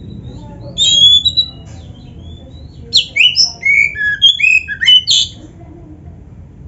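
Oriental magpie-robin singing: a short phrase of whistles about a second in, then a fast run of varied, sliding whistled notes from about three to five seconds in.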